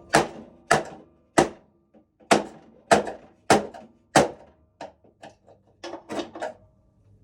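Flathead screwdriver jabbed repeatedly at a knockout in a metal electrical panel: a run of seven sharp metal knocks about every 0.6 s, then lighter, quicker taps. The knockout is not yet giving way.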